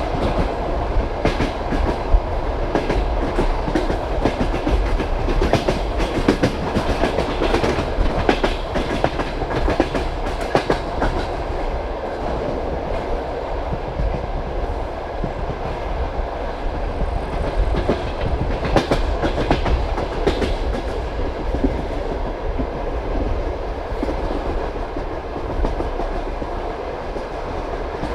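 Passenger train carriage wheels clattering over rail joints at speed: a steady rolling rumble with repeated sharp clacks, bunched in the first half and again about two-thirds through.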